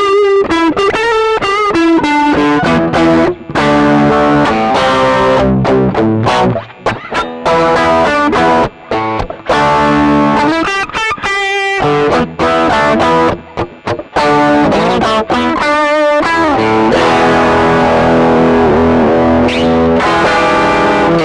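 A 1980 Greco SE500 Spacey Sound Stratocaster-type electric guitar played through an amplifier, running through single-note lines and chords with brief gaps between phrases and a wavering pitch near the end.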